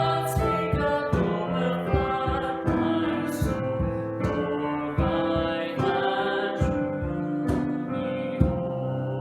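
A slow worship song: singing with piano accompaniment, held notes changing about once a second.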